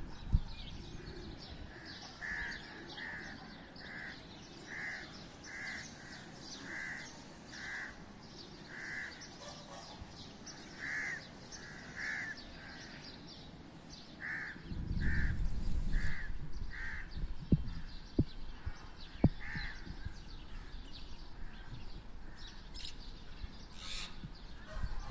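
A bird calling over and over in short calls, about one a second, with a brief pause partway through. A low rumble rises under the calls about halfway in.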